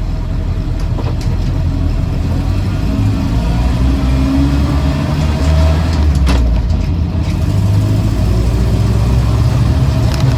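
1966 Land Rover Series IIa 88-inch's 2.25-litre four-cylinder petrol engine running under way, heard from the cab along with road noise, picking up a little from about three seconds in, with a few sharp knocks around six seconds in. The engine sounds sweet, though the driver thinks it may have a slight exhaust manifold blow, heard as an occasional chirp.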